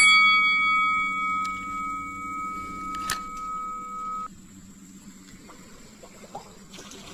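A bright, bell-like ringing tone that fades slowly and then cuts off suddenly about four seconds in, over a low hum, with a single click shortly before the cut.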